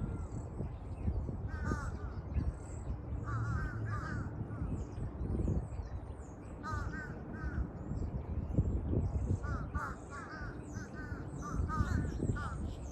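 Crows cawing in short runs of two to four calls, again and again, over higher chirping from other birds and a low rumble.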